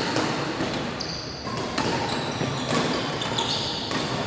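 A badminton rally in a large hall: rackets strike a shuttlecock with sharp knocks, several in a few seconds, over a steady hall background.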